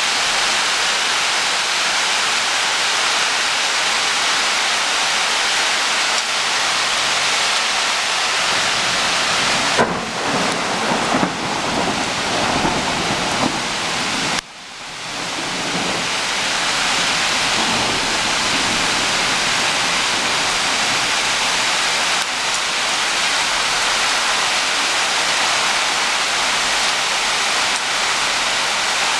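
Heavy rain from a thunderstorm pouring down in a steady, loud rush. About ten seconds in, a low rumble of thunder rolls for a few seconds. The noise drops sharply for a moment about halfway through, then comes back.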